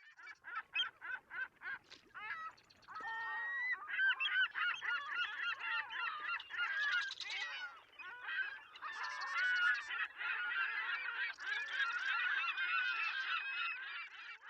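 A flock of geese honking: single calls at first, then from about three seconds in many birds calling at once in a dense, continuous clamour.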